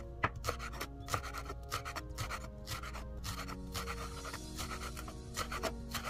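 Chef's knife slicing green onion on a bamboo cutting board: a run of sharp taps as the blade meets the board, about two to three a second, with a short let-up around two-thirds through. Background music plays throughout.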